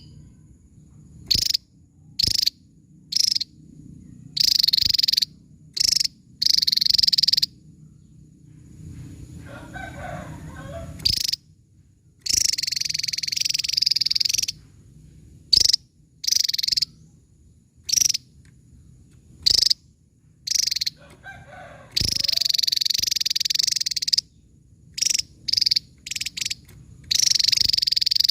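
Javan tesia calling in sharp, high-pitched bursts: some short single notes, others fast runs lasting a second or two, repeated throughout.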